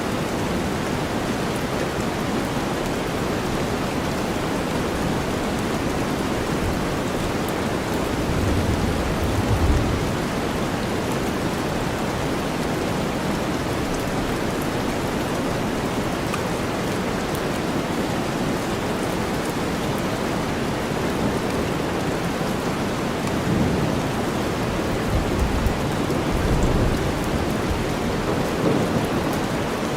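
Steady rain mixed with deep white noise, a constant even hiss. Low rumbles of thunder swell up about a third of the way in and again several times near the end.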